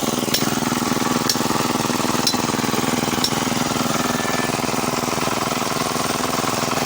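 Small engine of a plough machine running steadily, with a sharp click about once a second over the first few seconds.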